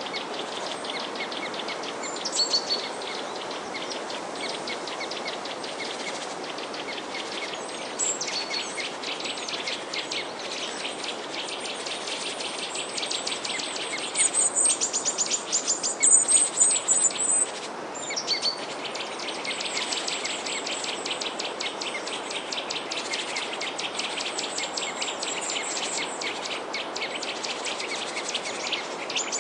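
Small birds chirping in quick, rapidly repeated notes, loudest in a burst around the middle, over a steady background rush.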